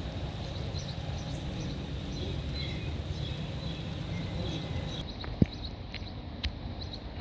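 Small birds chirping in short calls over a steady low outdoor rumble, with a sharp click about five seconds in and a smaller one a second later. The high hiss cuts off suddenly just before the first click.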